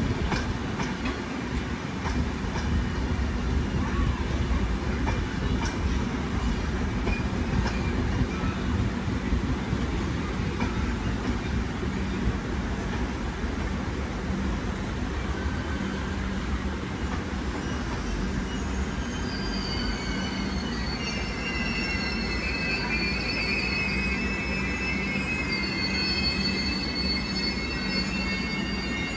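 Train running on rails with a steady rumble of wheels and carriages. About two-thirds of the way in, high-pitched wheel squeal joins in and holds as several steady tones.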